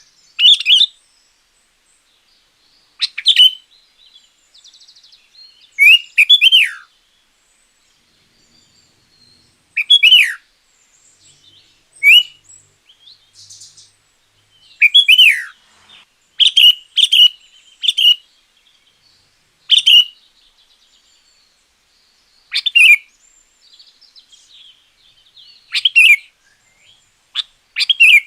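Sooty-headed bulbul (kutilang) singing: short, loud, bubbly whistled phrases that bend up and down in pitch, repeated every one to three seconds with brief pauses between, and fainter soft twittering in some of the gaps.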